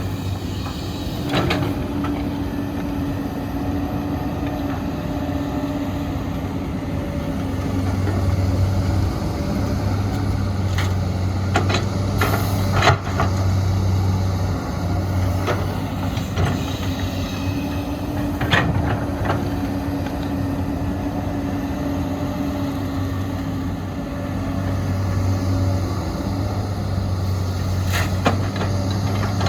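Heavy diesel machinery at work, an excavator loading a dump truck: engines running steadily with scattered metallic knocks and clanks, and a short hiss about twelve seconds in.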